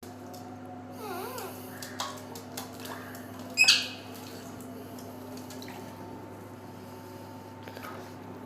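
Pet green parrot giving a short warbling whistle, then one loud, shrill squawk about three and a half seconds in, over a steady low hum.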